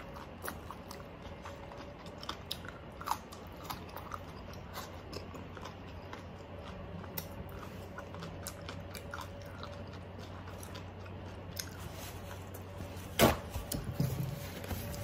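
A person chewing crunchy food close to the microphone, fresh cucumber and crispy roast pork, with scattered small crunches and mouth clicks. A single sharp knock near the end is the loudest sound.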